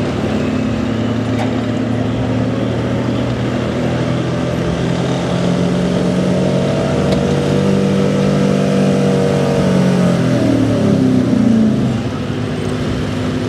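A 2004 Chevrolet street-gas pickup's engine running hard at high revs, pulling a weight sled. It holds a steady drone that edges up slightly, then its pitch falls away about ten to twelve seconds in as it comes off the throttle at the end of the pull.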